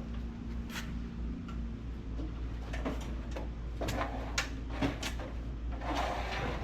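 Scattered light knocks and clicks of metal and plastic parts being handled and fitted, over a steady low hum.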